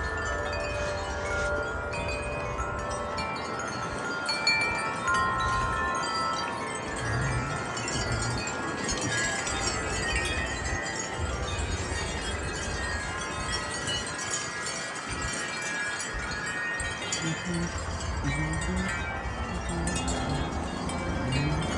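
Wind chimes ringing in gusty wind, many tones overlapping and sustaining, with a low wind rumble on the microphone that eases in the middle and picks up again near the end.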